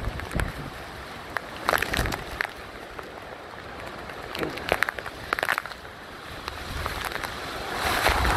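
Heavy hurricane rain and gusting wind, with wind rumbling on the microphone and scattered sharp taps of rain striking the phone's plastic case. The rain and wind grow louder near the end.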